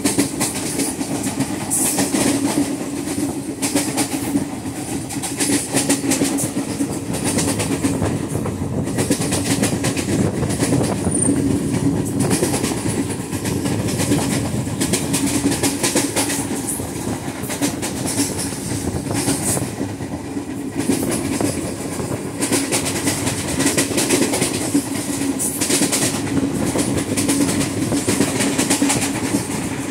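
Onboard an Indian Railways ICF passenger coach running at speed: steady wheel-on-rail rumble with fast, continuous clickety-clack, and the repeated pounding of a flat wheel, a wheel worn flat on one spot, striking the rail once each turn.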